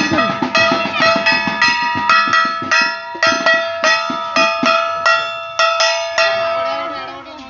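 Metal bells struck rapidly and repeatedly, each strike ringing on, with drum beats under them in the first few seconds. The striking stops about six seconds in and the ringing fades away.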